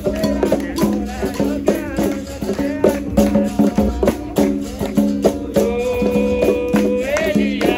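Capoeira roda music: a berimbau plays a steady rhythm alternating between two low notes, with the shaken rattle of a caxixi and hand-percussion strikes. A voice sings a line with a long held note, and more voices come in near the end.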